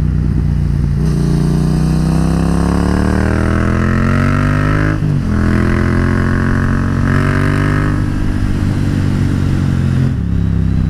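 Yamaha MT-07 parallel-twin engine with an Akrapovič carbon exhaust accelerating. The revs climb, dip briefly about five seconds in as it shifts up a gear, climb again, then settle to a steady cruise.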